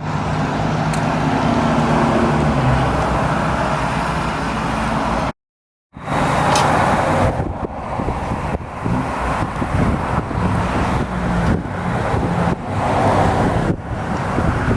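Car engines running: a steady engine note for about five seconds, a half-second break of dead silence, then engine and road noise that rises and falls unevenly.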